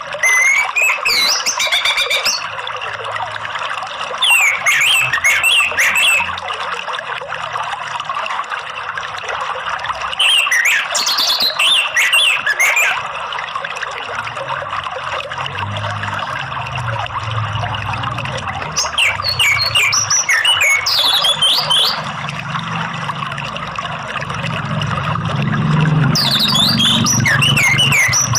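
Orange-headed thrush (anis merah) singing in clear, loud phrases: five bursts of song a few seconds apart. Underneath runs a steady sound of trickling water.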